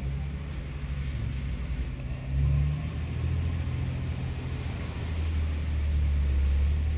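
Car engine idling: a steady low hum that swells about two and a half seconds in and again near the end.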